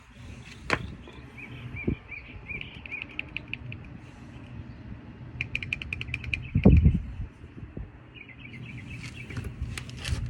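Birds chirping and trilling, with a few dull knocks; the loudest knock comes about two-thirds of the way through.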